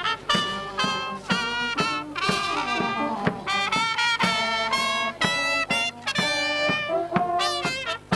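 Brass band playing a military march, with a drum beat about twice a second under the brass melody, accompanying troops in a ceremonial march-past.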